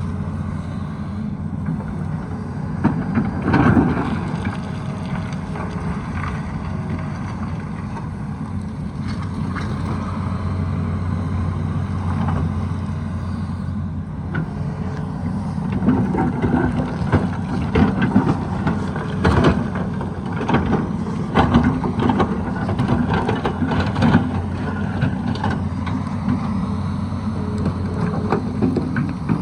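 Tata Hitachi excavator's diesel engine running steadily under load, with repeated knocks and scrapes of the bucket digging into rocky soil, busiest in the second half.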